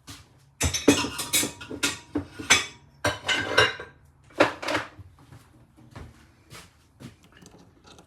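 Loose metal outboard-motor parts clattering and clinking as they are handled and set down, a quick irregular run of knocks with a brief metallic ring, thinning out to a few light clicks in the last few seconds.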